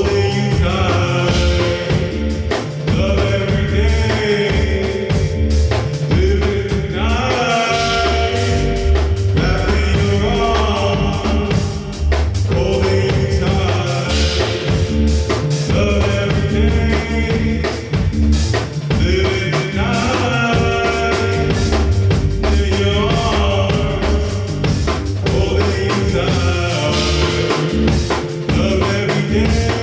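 Live band playing a steady groove with drum kit and bass, with pitched melodic lines over them.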